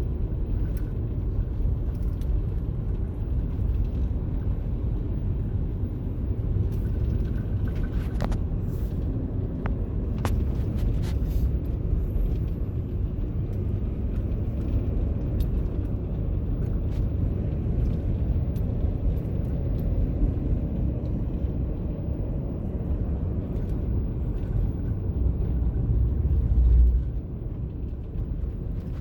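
Steady low road-and-engine rumble of a moving car heard from inside it, with a few sharp clicks about a third of the way in. The rumble swells louder near the end, then drops away.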